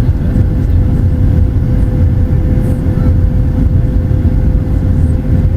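Steady low rumble of jet engine and airframe noise inside the cabin of a Boeing 737-800 with CFM56 engines, with a thin constant hum running through it.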